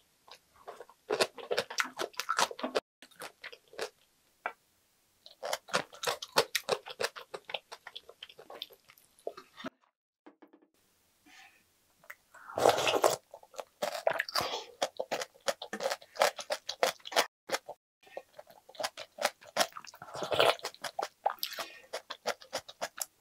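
Close-miked crunching and chewing of kkakdugi, cubed radish kimchi, in bouts of rapid crisp crunches separated by short pauses.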